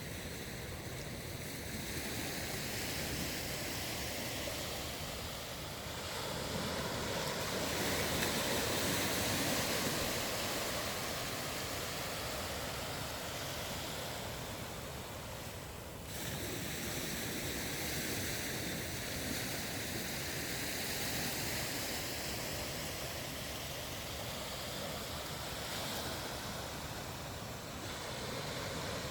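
Ocean surf washing and breaking on a sandy beach, a steady rushing noise that swells about a third of the way in and changes abruptly a little past halfway.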